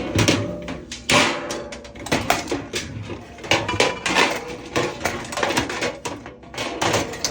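Irregular knocks, clicks and clatter of kitchenware and containers being handled and set down on a counter.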